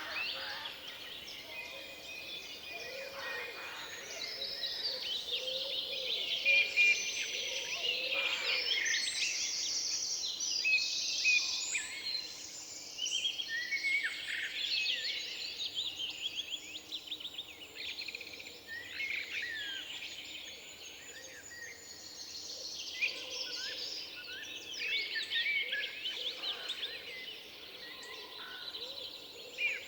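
A chorus of many songbirds singing at once, with overlapping high chirps and trills. It is at its busiest between about six and fourteen seconds in.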